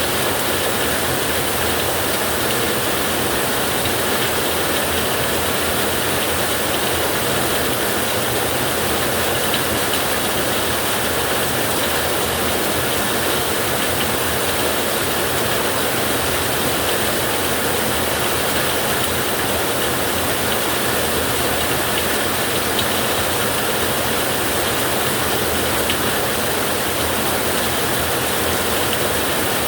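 Steady rain falling on a metal roof, a dense, even patter of drops, with no thunder in this stretch.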